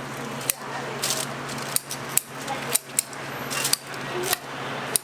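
A run of sharp metal clicks and clinks from eating utensils or kitchen scissors working on the roast chicken and its dish, about two a second, over steady background chatter.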